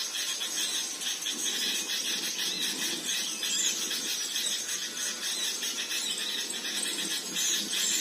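Small birds twittering: many short, high-pitched chirps overlapping densely without pause, over a steady high hiss.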